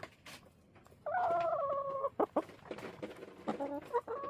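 Backyard hens calling: one drawn-out call lasting about a second, then a run of short clucks near the end.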